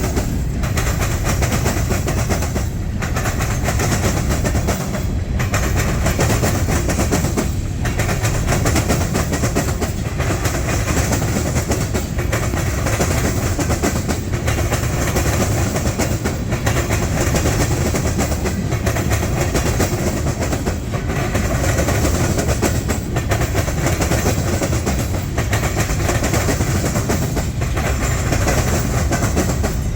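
Freight train rolling past: a steady rumble of railcars with wheels clicking over the rail joints, dipping briefly about every two and a half seconds as car after car goes by.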